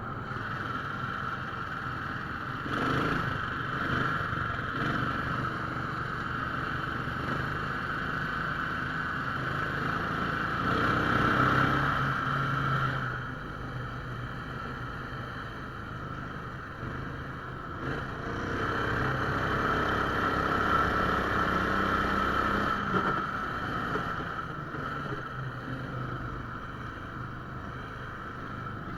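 17 hp Lifan engine of a motorized towing sled running under load, getting louder and quieter as the throttle is opened and eased off, with swells about ten seconds in and again around twenty seconds.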